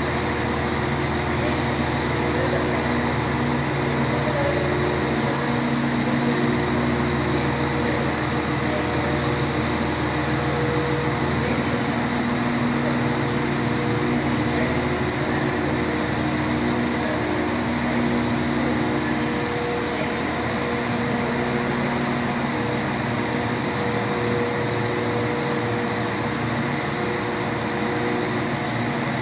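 A CAF Class 197 diesel multiple unit standing at idle, its engines and ventilation giving a steady hum made of several low tones over a constant background noise.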